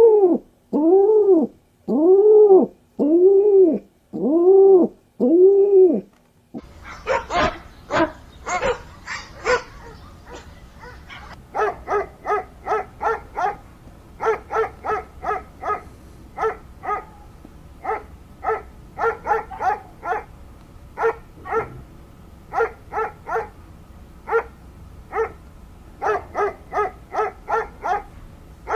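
An animal calling. It gives a regular series of rising-and-falling calls about once a second, then switches about six seconds in to rapid short yapping calls, several a second in uneven bursts.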